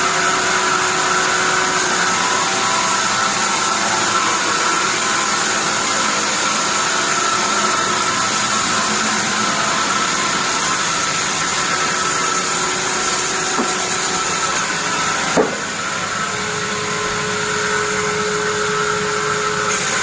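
Sawmill bandsaw machinery running steadily, a loud mechanical noise, with a short sharp knock about fifteen seconds in, after which a steady tone holds for a few seconds.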